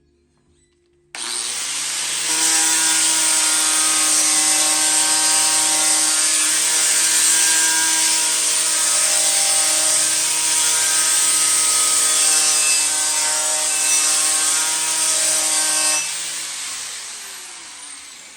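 A handheld electric power tool spins up suddenly about a second in and runs steadily for about fifteen seconds, its motor whine over a harsh scraping hiss as it cleans the tractor wheel hub's mounting face. It then coasts down with a falling whine.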